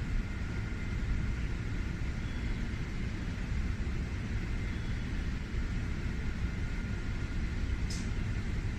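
Steady low rumble of a Shinkansen platform, with a 700-series train standing at it and two faint steady tones over the rumble. There is one brief high chirp near the end.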